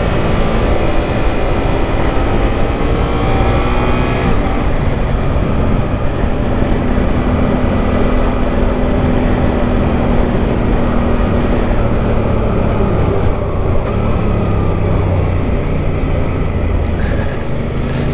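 Motorcycle engine running while riding, over heavy wind rush. The engine note rises for the first four seconds or so, then runs steadier with some changes in pitch.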